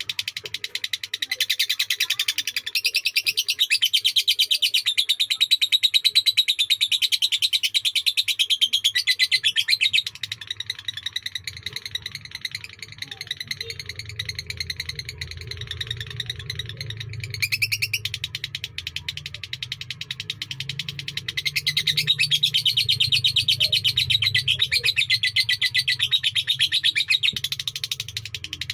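Lovebird's long chattering song (ngekek), a very fast, unbroken run of high chirps. It is strong for about ten seconds, eases off, then comes back strongly near the end.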